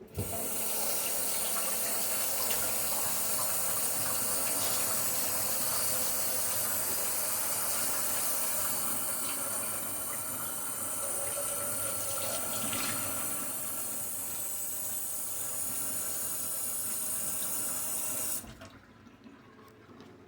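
Kitchen tap running in a steady stream over a sink while a small tomato is rinsed, shutting off suddenly near the end.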